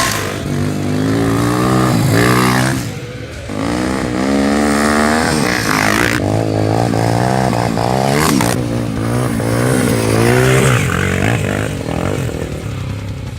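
Trail motorcycle engines revving hard, pitch rising and falling over and over as riders work the throttle, at times two bikes at once.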